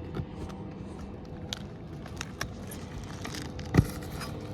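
Old rusted roofing nails being worked out of asphalt shingles with hand tools: scattered metal clicks and clinks, with one sharper knock a little before the end.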